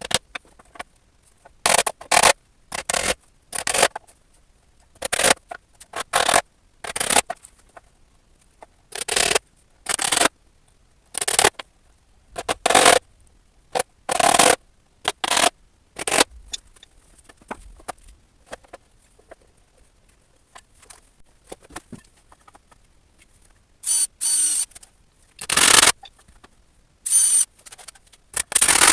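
A hand tool scraping across wood in short separate strokes, about one a second in irregular groups, some twenty in all, with a pause of several seconds past the middle.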